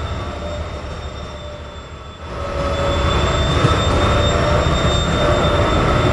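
TEP70 diesel-electric locomotive running. The engine sound drops away about two seconds in, then builds back up to a steady, loud run with a high whine over it.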